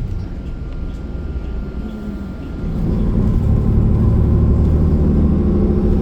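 City bus engine and drivetrain heard from inside the cabin, a low steady drone that gets clearly louder a little under halfway through as the bus puts on power.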